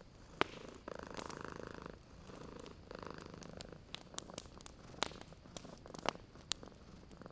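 Domestic cat purring close up, in swells about every two seconds. Sharp pops and crackles from a wood fire come through it, several of them between four and seven seconds in.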